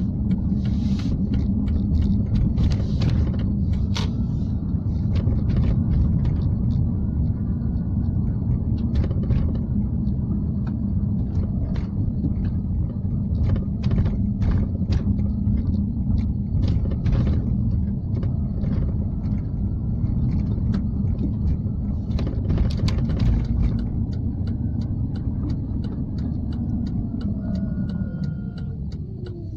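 Car driving, heard from inside the cabin: a steady low rumble of engine and road noise with scattered clicks and rattles. A falling whine near the end.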